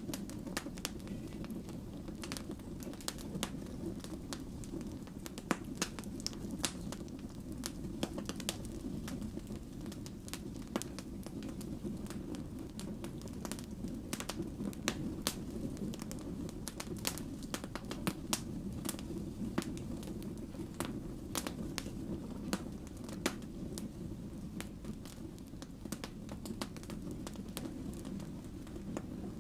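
Wood fire burning steadily, with a low roar of flames and frequent irregular crackles and pops from the burning logs.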